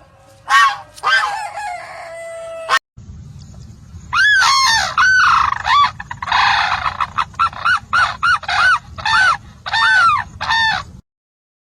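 A bird calling: a few calls, then after a brief break a fast run of short rising-and-falling calls, about two a second, over low background noise.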